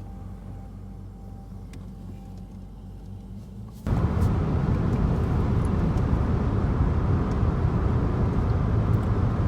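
Car driving, heard from inside: a steady low hum of engine and road noise that jumps suddenly much louder about four seconds in and stays loud, a dense rush of road or wind noise.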